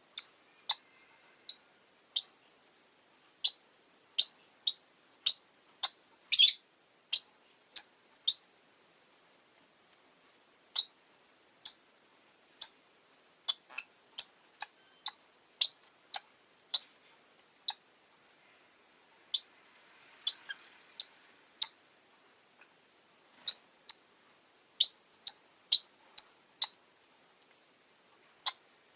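Rosy-faced lovebirds chirping: short, sharp, high chirps at an uneven pace, with one longer, louder call about six seconds in.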